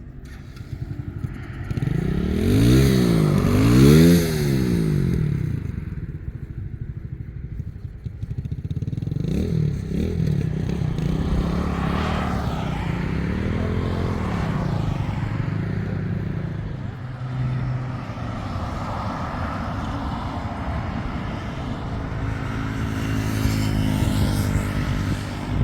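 An engine running, its pitch rising and falling again and again as it revs up and down, loudest a few seconds in.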